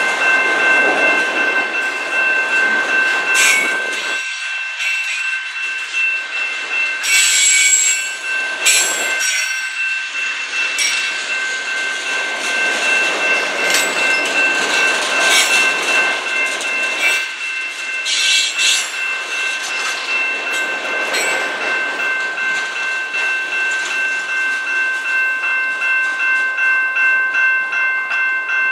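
Freight train's autorack cars rolling past, steel wheels clicking over rail joints over a rumble, with several steady high-pitched ringing tones throughout.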